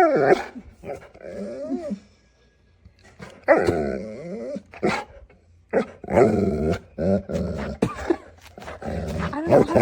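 A dog growling and barking in several drawn-out, pitched bouts a second or so long.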